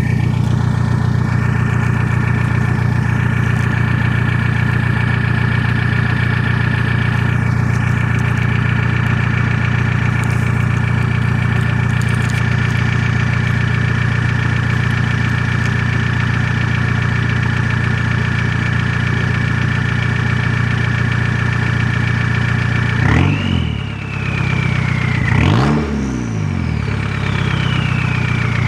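Straight-piped 1.9-litre four-cylinder turbodiesel of a 2000 VW Jetta TDI idling steadily for a long stretch, then revved twice near the end, each rev rising and falling back.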